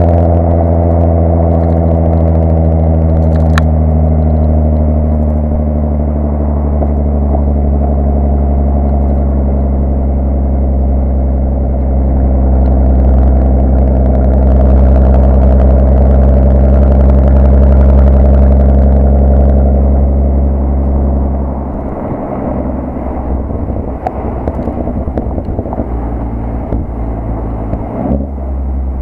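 Mk5 Golf R32's 3.2 VR6 engine heard through a decat, non-resonated Milltek exhaust as the car drives, holding a loud, steady exhaust note at constant revs. About 22 seconds in the note drops, becoming quieter and rougher, with a brief rise near the end.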